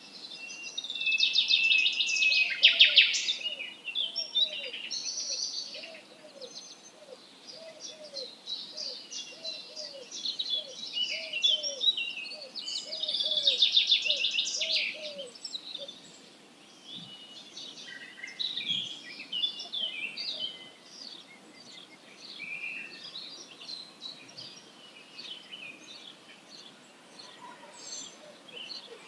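Dawn chorus of several songbirds singing over one another, loudest in two dense bursts near the start and about halfway through. Under the first half runs a regular series of short low notes, about one and a half a second.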